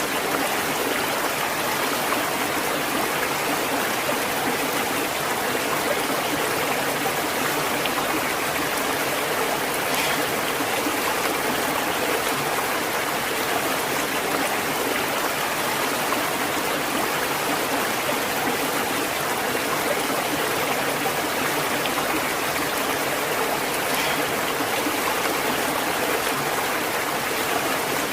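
Stream water flowing steadily, an even, unbroken rushing and babbling.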